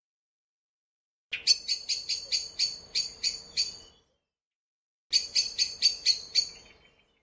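Great spotted woodpecker giving runs of sharp, high 'kik' calls, about four or five a second. The first run lasts about two and a half seconds, and a second, shorter run starts about five seconds in, each fading out at its end.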